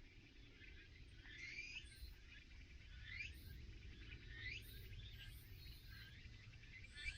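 Wild birds calling: short, high calls that fall in pitch, repeated about every second and a half, over a faint low outdoor hum.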